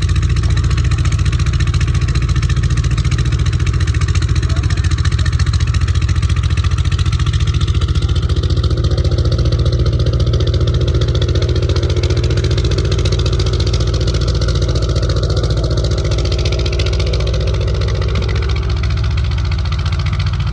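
An engine running steadily, with a deep low rumble and a fast, even pulse.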